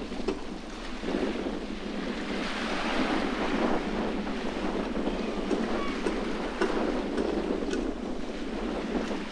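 Sea waves washing against the shore under a strong, gusting wind, a steady rushing noise that swells and eases, with wind buffeting the microphone.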